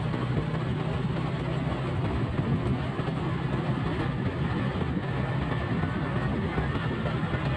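Motorcycle engine running at a steady speed while riding, with a constant rushing noise over the engine hum.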